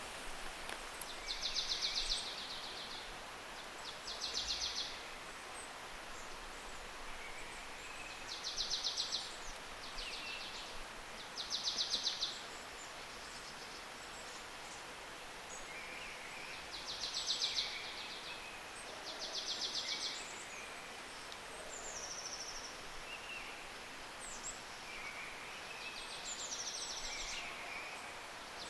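A songbird repeating a short, fast, high trill of about a second, about seven times at uneven gaps of a few seconds, with fainter chirps and calls of other birds over steady outdoor background noise.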